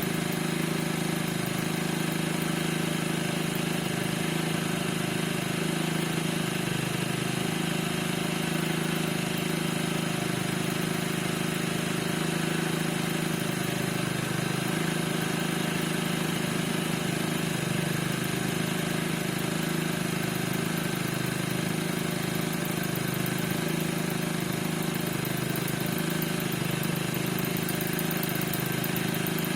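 Piaggio NRG 50 scooter's 50 cc two-stroke single-cylinder engine running steadily at idle, with a steady high squeak over the engine note; the cause of the squeak is unknown.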